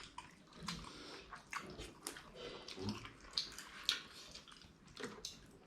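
Faint eating sounds of dhido and fish gravy: soft wet chewing and mouth smacks with small scattered clicks.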